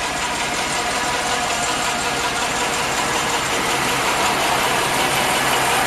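1988 Chevrolet 1500's mildly modified 5.7-litre 350 V8 idling steadily.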